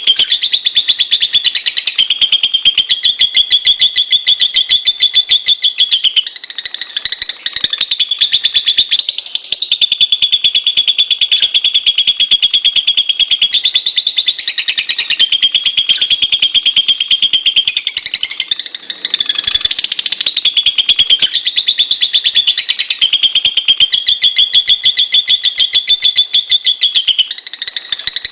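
Lovebird giving one long, unbroken, high-pitched chattering trill of very fast repeated notes. The pitch shifts briefly every few seconds.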